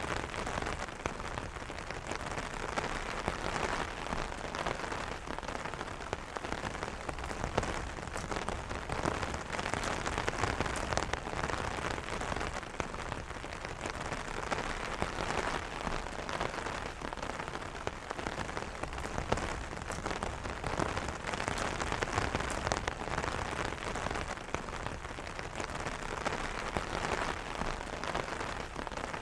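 Steady rain falling on an umbrella: a dense patter of many small drop impacts on the taut canopy, even throughout with no thunder.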